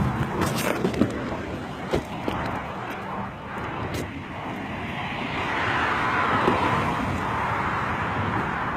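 A few sharp clicks and knocks in the first four seconds, fitting a car door being opened as she climbs out. Then steady outdoor traffic noise that swells from about five seconds in, as a vehicle goes by.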